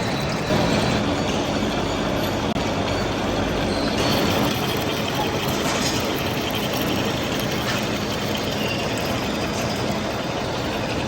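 Workshop machinery running with a steady, loud mechanical noise.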